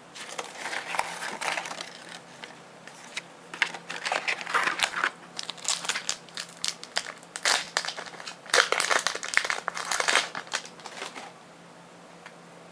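Plastic-foil Pokémon booster pack wrapper crinkling and being torn open, in irregular bursts of crackly rustling that stop about eleven seconds in.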